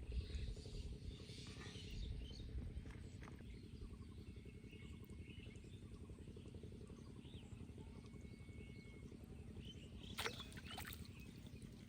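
Quiet outdoor ambience by a canal: a steady low rumble with faint short chirps, and a brief cluster of clicks or rustles about ten seconds in.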